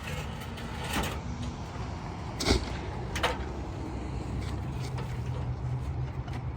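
Job-site noise on a roof: a few sharp knocks, the loudest about two and a half seconds in, over a steady low hum.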